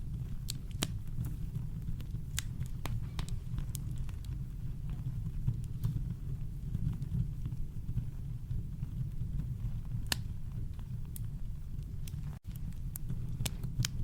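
Campfire crackling: scattered sharp pops and snaps of burning wood over a steady deep rumble of brown noise. The sound cuts out for an instant near the end.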